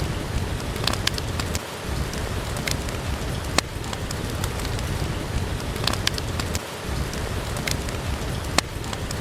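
Steady rain hiss with a wood fire crackling, a sharp pop now and then.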